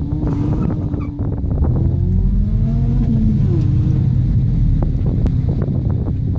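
A car engine idling, heard from inside the car, while another car's engine revs up as it accelerates away, rising in pitch and then dropping at a gear change about three and a half seconds in.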